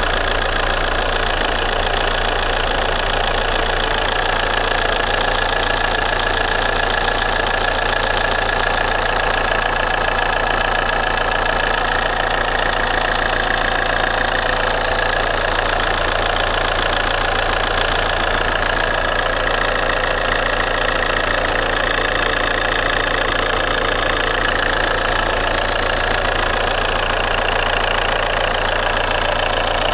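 Alfa Romeo 147's 1.9 JTDm 16V four-cylinder turbodiesel running steadily at idle, with a steady high-pitched tone over the engine note; the owner calls it a strange metal sound.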